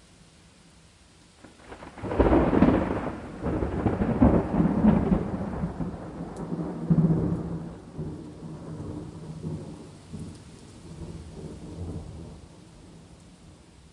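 A thunderclap breaks about two seconds in and rolls on in several rumbling swells, fading away over the next ten seconds. Faint steady rain hiss lies under it throughout.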